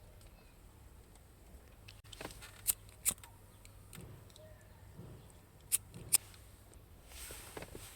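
Sharp clicks and light handling noises from small parts or tools being worked by hand, in two pairs of clicks a few seconds apart, over a low hum.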